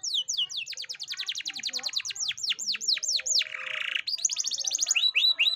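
Domestic canary singing a trilled song of rapid falling whistled notes, many per second. About three and a half seconds in it gives a short harsh buzzy note, then another fast trill and slower down-slurred notes near the end.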